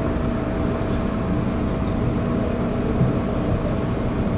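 Steady rumble and hum inside an MTR Island line train carriage as the train slows into a station, with a light knock about three seconds in.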